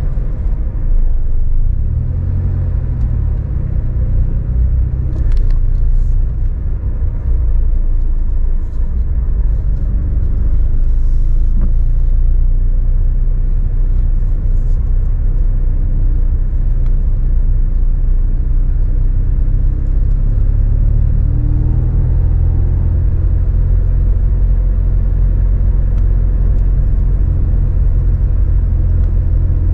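Toyota AE86 Sprinter Trueno's four-cylinder engine running at low, steady parade-lap pace, heard on board as a deep drone with road noise. The revs rise a little about two-thirds of the way through.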